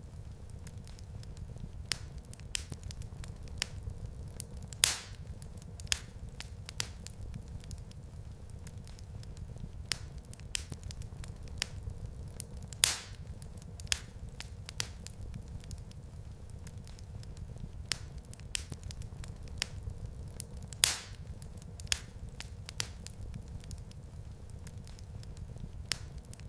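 Wood fire crackling in a fireplace: frequent small crackles over a steady low rumble, with a sharper, louder pop about every eight seconds.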